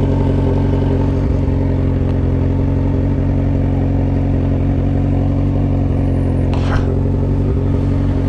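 Kawasaki Z900RS inline-four motorcycle engine running at a steady engine speed while riding, sounding through an aftermarket stainless-steel 4-into-1 header and slim straight muffler.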